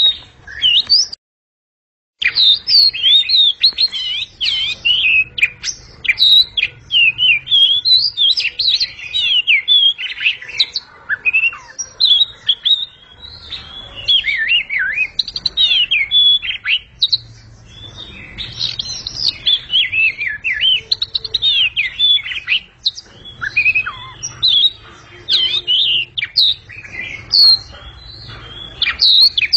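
Oriental magpie-robin (kacer) singing loudly: a rapid, unbroken stream of varied, sweeping whistled phrases. The sound drops out completely for about a second near the start.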